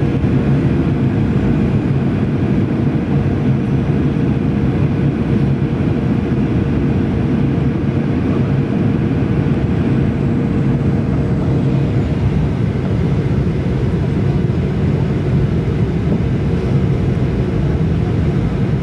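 Jet airliner cabin noise during the descent to landing: a steady, loud rumble of engines and airflow with a constant low hum.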